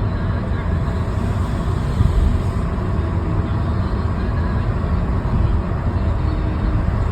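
Road traffic noise: a steady low rumble of cars and other vehicles on a city road.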